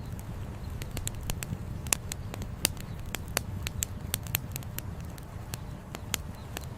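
Campfire crackling, with burning firewood giving off irregular sharp pops and snaps, several a second at times, the loudest about two seconds in and again shortly after, over a steady low rumble.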